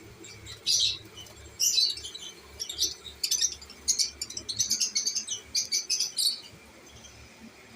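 Lovebird chirping: a quick, irregular run of short, high chirps that starts about a second in and stops a little before the end.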